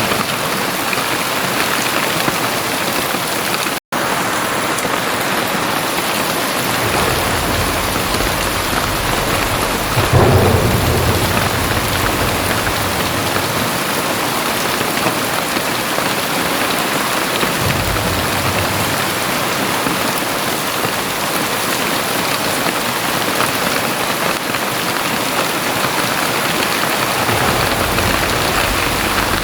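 Very heavy rain pouring steadily, with several low rumbles of thunder; the loudest rumble comes about ten seconds in. The sound drops out for a split second about four seconds in.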